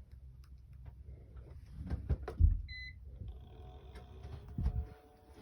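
A few knocks and a thump, then a short electronic beep, and a small electric fan motor starting up with a steady whine of several tones: a white Bell + Howell socket fan switched on.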